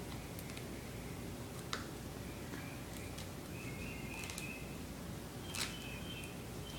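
Faint handling of duct tape and scissors: a couple of light clicks and short squeaky sounds of the tape as a piece is cut and worked, over a low steady hum.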